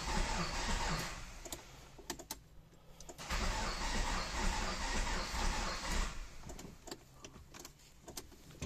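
Starter cranking a Renault Kangoo 1.5 dCi diesel that will not fire, in two bursts with a pause between, the engine knocking as it turns over; the cranking speed is weak. The knock comes from an engine whose valves have struck the pistons.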